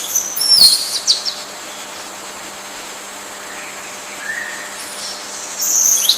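Birds chirping in short high-pitched calls with quick pitch sweeps: a cluster near the start, one lower call about four seconds in, and another cluster near the end, over a steady background hiss.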